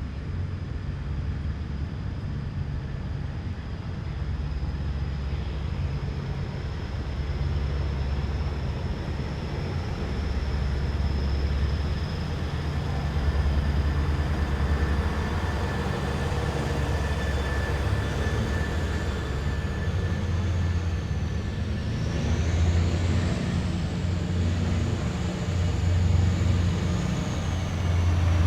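Heavy military vehicles passing in a column, their engines making a deep low rumble that slowly grows louder. A thin high whine runs throughout, and from about two-thirds of the way in a second whine rises and falls.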